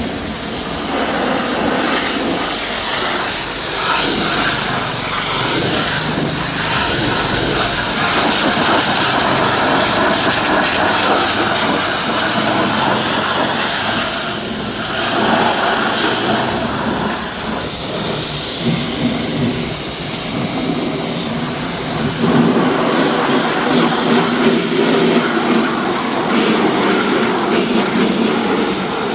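Pressure washer spraying a high-pressure water jet onto a car: a loud, steady hissing rush whose tone shifts a few times as the spray moves across different surfaces.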